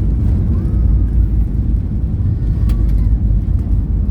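Steady low rumble of airliner cabin noise from the jet engines and airflow, heard from inside the passenger cabin during the landing. Faint voices come and go on top of it.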